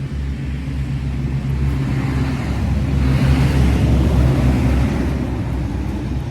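A steady low rumble, with a vehicle passing by: its noise swells to a peak about halfway through and then fades.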